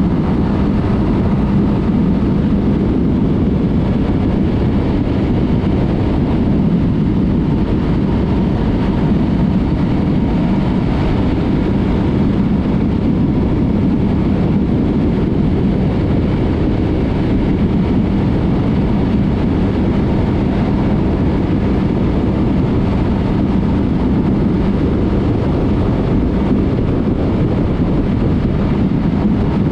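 Yamaha MT-03 motorcycle with a Mivv aftermarket exhaust cruising at a steady engine speed, a constant engine drone mixed with wind and road noise.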